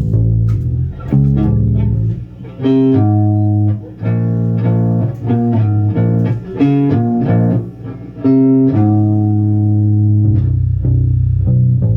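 Bass guitar playing a slow line of held low notes mixed with higher notes and double-stops, with short breaks between phrases.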